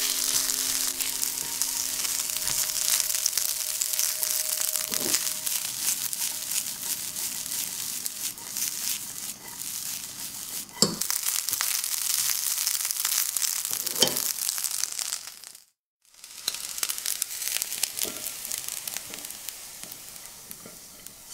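Fried rice sizzling in a wok as it is stir-fried, with a few knocks of the spatula against the pan. The sizzling breaks off for a moment about two-thirds of the way through, then resumes and fades toward the end.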